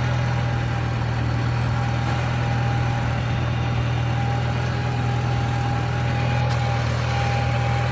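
Tractor engine running steadily at a constant speed, with a strong low hum and a thin, steady higher whine, while grading the driveway.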